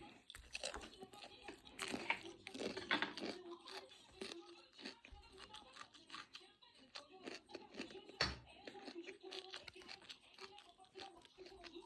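A person chewing and biting cabbage: an irregular string of crunches, with one louder crunch about eight seconds in.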